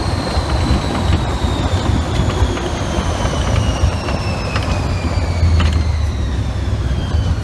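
Test Track ride vehicle running with a strong low rumble and a high whine that falls steadily in pitch, with a few faint clicks.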